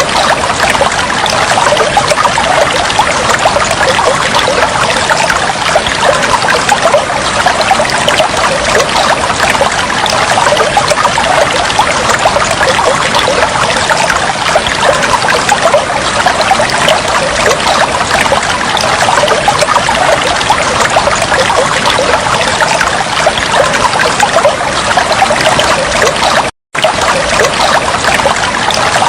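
Continuous trickling, flowing water, dense and steady with fine bubbling detail, broken by a split-second dropout to silence near the end.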